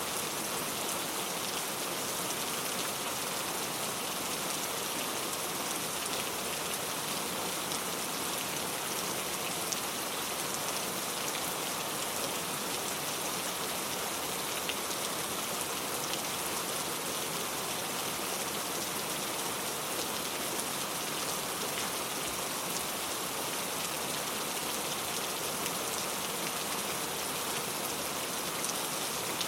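Steady rain falling on a surface: a dense, even hiss with faint scattered drop ticks, unchanging throughout.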